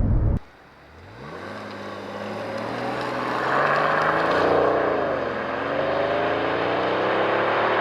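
Mercedes S65 AMG's 6.0-litre V12 biturbo engine accelerating hard. Its pitch climbs steadily from about a second in, drops briefly at an upshift about five seconds in, then climbs again.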